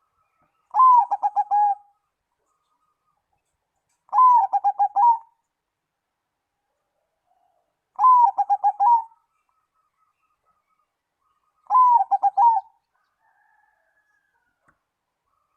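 Zebra dove (perkutut) singing its staccato cooing song four times, about every four seconds: each phrase is one higher opening note followed by a quick run of lower coos.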